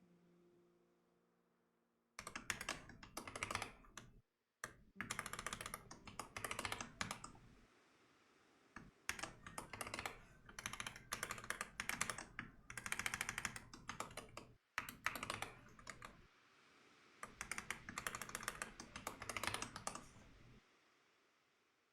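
Typing on a computer keyboard: fast runs of key clicks in several bursts of one to four seconds each, with short pauses between them.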